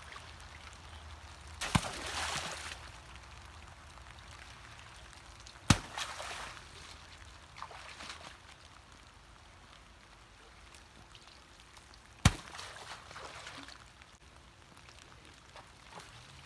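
Waterlogged firewood logs being handled in floodwater: three sharp knocks, each followed by about a second of splashing and dripping water.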